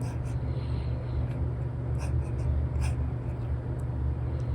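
Apple Pencil with an Elecom replacement nib drawing on an iPad's paper-like screen film: soft scratchy strokes and a few light taps, over a steady low hum.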